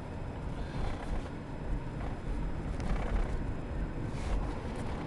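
Inside a moving car: a steady low rumble of road and engine noise, with a few faint clicks and knocks.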